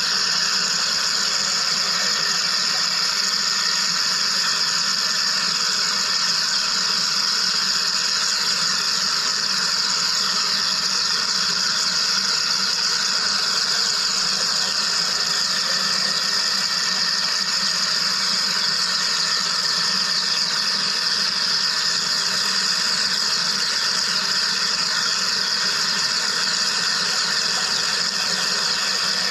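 Wire EDM (electrical discharge machining) machine running. It makes a steady, unchanging machine noise with a strong high hiss and several steady tones.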